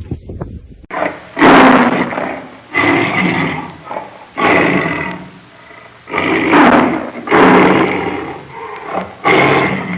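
A large animal calling loudly over and over: about six long, harsh calls, each roughly a second long, starting suddenly about a second in.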